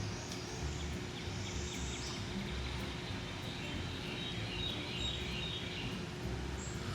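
Outdoor woodland ambience: a steady chirring of insects with birds chirping.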